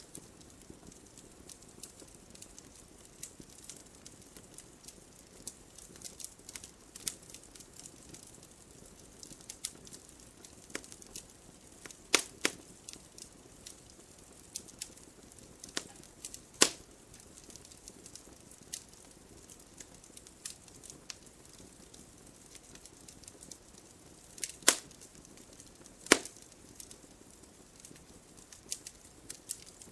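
Wood campfire crackling: irregular sharp pops and snaps over a low steady hiss, with a handful of much louder pops scattered through.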